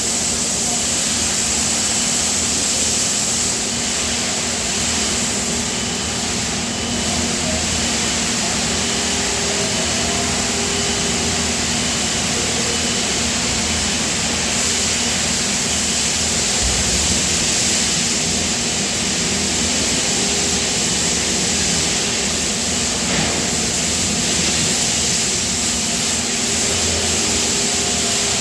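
Steady, loud industrial machinery noise with a constant low hum, typical of a die-casting machine and its hydraulic power unit running in the plant.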